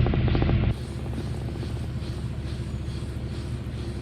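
LG Inverter Direct Drive washing machine spinning at high spin speed as a steady hum with a faint regular throb. A louder, fast-pulsing noise stops abruptly under a second in.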